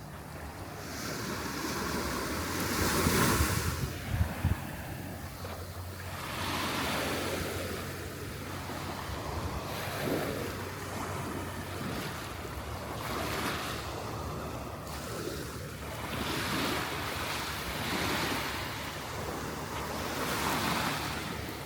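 Surf breaking and washing up the beach, swelling every few seconds, loudest about three seconds in, with wind rumbling on the microphone.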